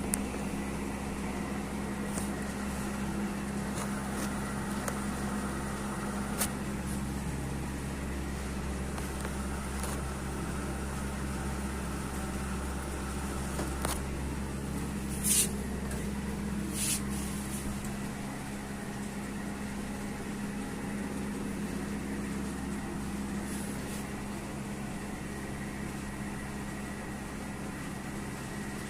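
A steady low mechanical hum, with a few sharp clicks, the loudest about halfway through.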